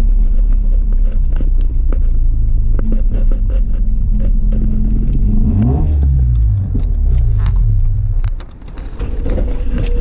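Mazda RX-7 FD3S rotary engine running loud and steady. About halfway through the revs rise and fall, and the sound drops away near the end.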